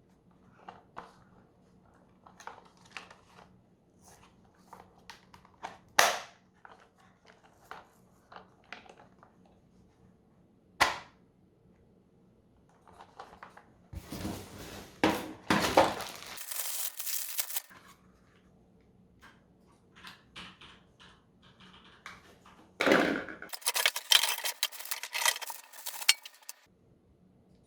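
Packaging and plastic parts of a Kärcher VC3 vacuum cleaner being handled during unboxing: scattered light clicks and knocks, two sharper knocks, then two spells of rustling, crinkling packaging lasting a few seconds each.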